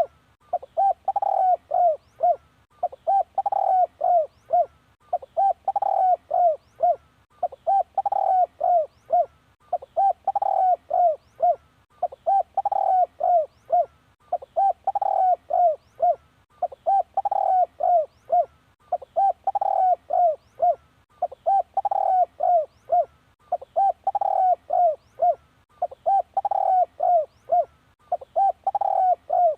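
Spotted dove cooing: a short phrase of several quick coos, repeated steadily about every two and a quarter seconds.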